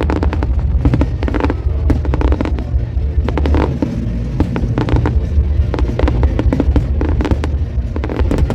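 Aerial fireworks display bursting: a rapid, irregular run of bangs and crackles over a continuous low rumble.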